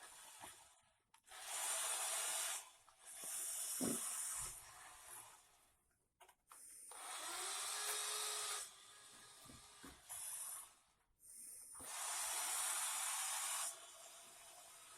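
Electric drive motors and gears of a Soviet radio-controlled toy truck whirring in five bursts of about half a second to two seconds each, starting and stopping sharply as the toy drives and stops.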